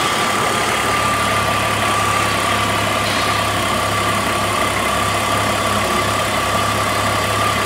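BMW straight-six engine idling steadily with its oil filler cap open, drawing in unmetered air that leans the mixture. A low hum with a thin, steady high whine over it.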